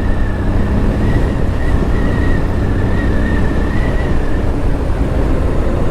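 Motorcycle on the move: steady engine and wind rumble on a GoPro's microphone, with a thin high whine that wavers slightly and fades out about four and a half seconds in.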